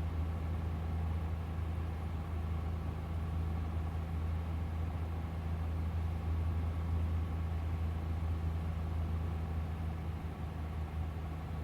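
Cessna 172G's six-cylinder Continental O-300 engine droning steadily at reduced power on final approach with landing flaps out, heard in the cockpit. The drone eases slightly near the end.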